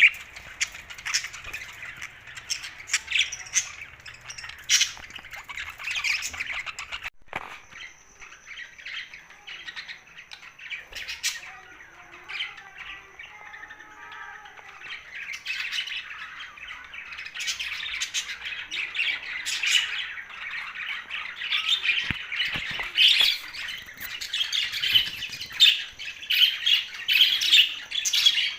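A group of pet budgerigars chattering, with a constant stream of short chirps and squawks that thins out for a while about a quarter of the way in and grows busier again through the second half.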